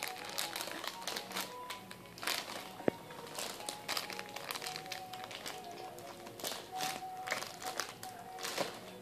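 Plastic baby-wipes package crinkling in irregular bursts as it is handled, with one sharper click about three seconds in. Music with held tones plays underneath.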